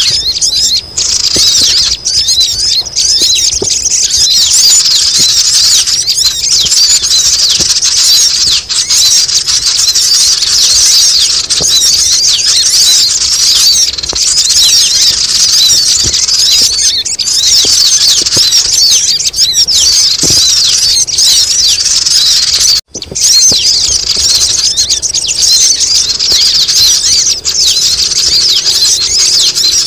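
A dense, loud chorus of many sogon birds chattering and squealing at once in high, squeaky overlapping notes. It is a bird-trapping lure call, used to draw wary birds down. The sound drops out for an instant about 23 seconds in, then carries on.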